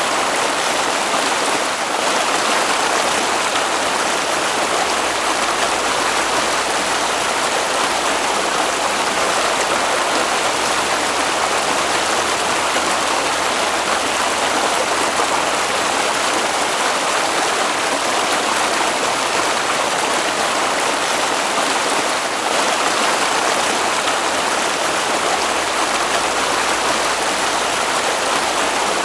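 Flowing stream water rushing steadily and evenly, without pauses or distinct splashes.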